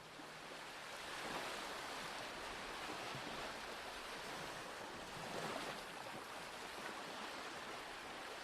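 Steady rushing rain-like noise that swells in over the first second or so, then holds even, with no music or melody in it.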